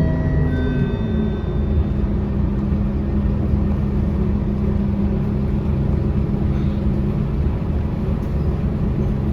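Scania K230UB city bus's diesel engine running steadily with a constant low hum, with a few brief high tones in the first second.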